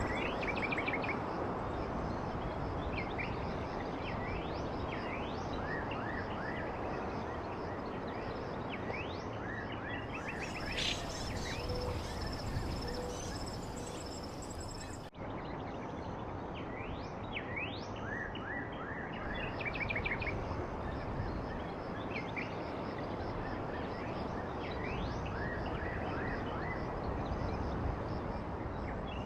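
Wild songbirds chirping and trilling, with short rapid trills and quick sweeping notes, over a steady rushing background noise. The sound drops out for an instant about halfway through.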